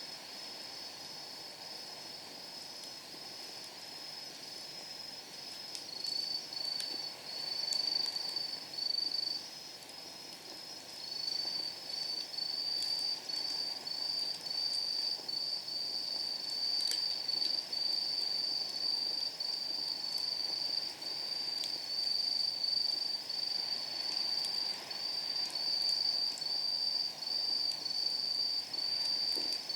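Crickets chirping in steady, evenly pulsed high-pitched trills, a second, louder one joining about six seconds in. Faint pops of burning firewood crackle now and then.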